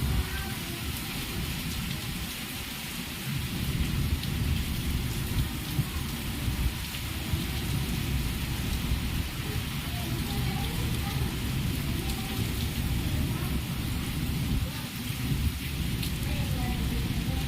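Heavy rain pouring steadily in a storm, over a constant low rumble.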